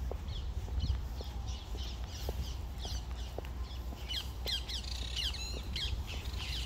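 Birds calling with many short, high, falling calls, a few at a time at first and then a dense flurry about four seconds in.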